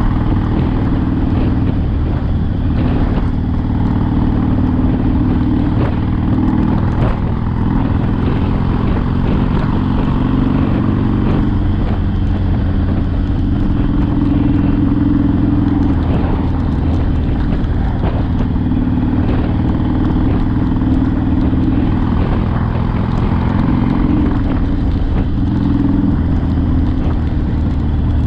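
Harley-Davidson Sportster V-twin engine running under way on a ride, its low note shifting up and down a few times as the revs change.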